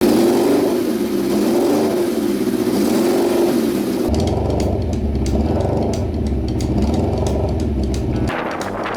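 Suzuki GS550 motorcycle's air-cooled inline-four engine running and revving. The sound changes abruptly about four seconds in, to a deeper rumble with rapid ticking, and again near the end.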